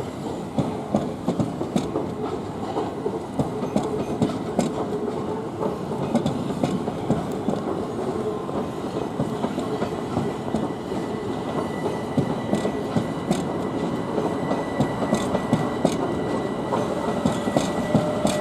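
Southern Class 377 electric multiple unit passing close by, its wheels clattering steadily over rail joints and pointwork under a continuous rumble. A faint thin high tone comes in over the second half.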